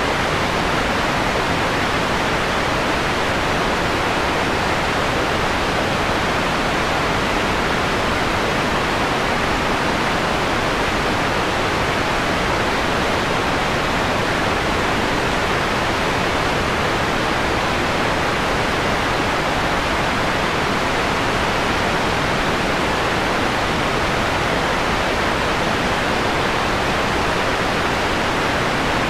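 Steady synthetic noise, a hiss with its top end rolled off so it sounds softer than pure white noise, strongest in the middle and fading above the high treble. Unchanging throughout, with no tones or events.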